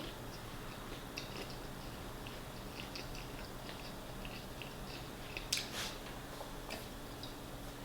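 A person chewing fried food close to the microphone: a run of small, soft mouth clicks and crackles, with a sharper crunch about five and a half seconds in and another about a second later.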